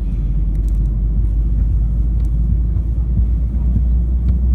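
Steady low rumble of an Airbus A319 airliner, heard from inside the passenger cabin.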